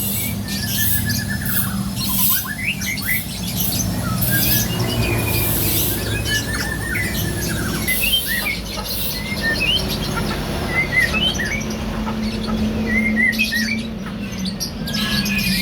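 Small birds chirping and whistling in short, varied notes, some gliding in pitch, over a steady low hum.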